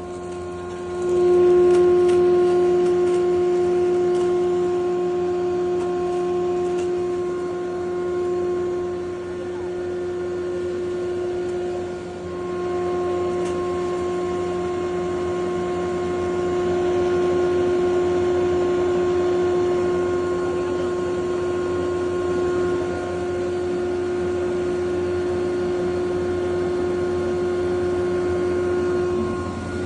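Electric grinder machine running steadily, giving a continuous humming tone that gets louder about a second in.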